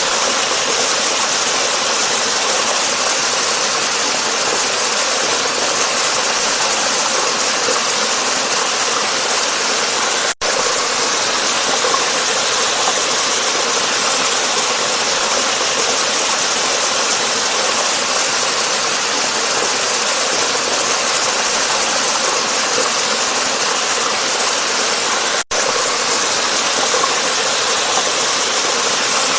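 Waterfall: water rushing steadily in a dense hiss. The sound drops out for an instant twice.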